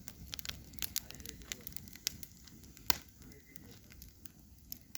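Wood fire burning in a mangal (barbecue grill), crackling with irregular sharp pops, one loud pop about three seconds in, over a low steady rumble.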